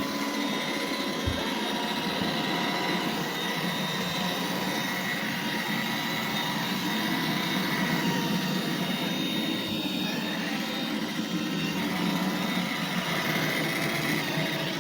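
iRobot Roomba 877 robot vacuum running: a steady motor whir with a few thin high whines over it.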